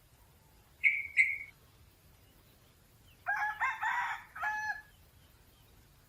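Two short, sharp bird notes about a second in, then a red junglefowl crowing once midway through: a broken crow of about a second and a half ending on a held note.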